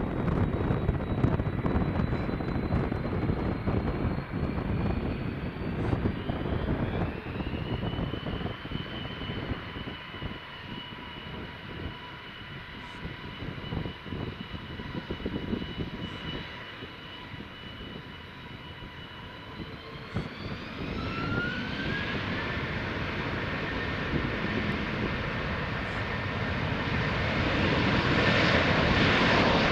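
Jet airliner engines spooling up for takeoff. The fan whine climbs in pitch about seven seconds in and holds steady, then climbs again about twenty seconds in as takeoff thrust is set, and the engines grow louder near the end. Wind buffets the microphone in the first several seconds.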